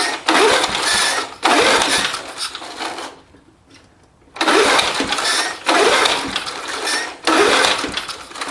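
Old 3.5 hp Briggs & Stratton lawnmower engine being pull-started over and over: six pulls of the recoil starter, three then a short pause then three more, each a brief whir rising in pitch as the engine turns over and fires but does not keep running. The owner thinks the carburettor needs work.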